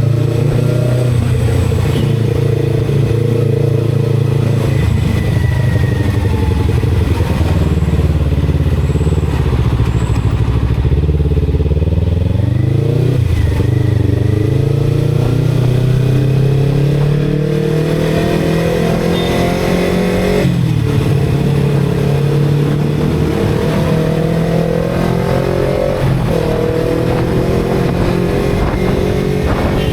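Motorcycle engine running on the move. Around halfway it slows and then picks up again. After that the pitch climbs steadily, broken by two short drops like gear changes, a little after two-thirds of the way and near the end.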